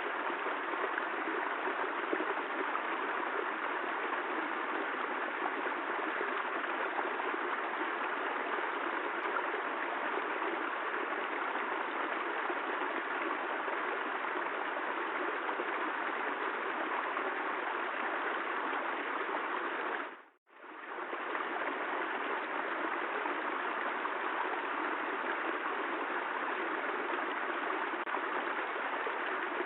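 Steady rain: a continuous even hiss of falling water with no thunder. About twenty seconds in it fades out to near silence and straight back within about a second, like the seam where a looped recording restarts.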